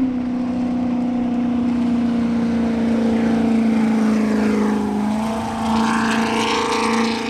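Jet sprint boat engine running with a steady, loud note that sinks slowly in pitch as the boat eases off after finishing its run.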